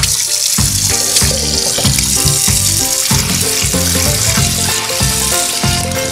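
Kitchen tap running, the water splashing onto a frying pan and into a steel pot in the sink. Background music with a steady beat plays underneath.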